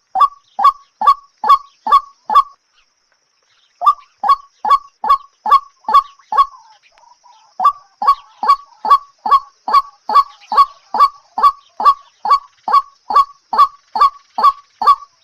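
A bird's call, short and dropping in pitch, repeated evenly at about two calls a second, with a pause of just over a second near the start.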